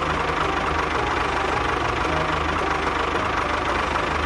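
Tractor-type engine idling steadily with a fast, even low pulse.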